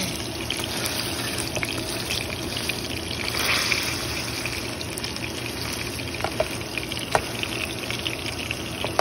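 Ground beef patties sizzling in hot oil in a pan, with scattered pops and crackles. The sizzle swells briefly about three and a half seconds in as a metal potato masher presses a patty down.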